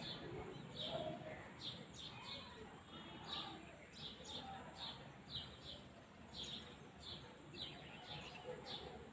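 Small birds chirping steadily in a faint, repeated series of short high calls, about one and a half a second, each sliding down in pitch, over a low outdoor background hum.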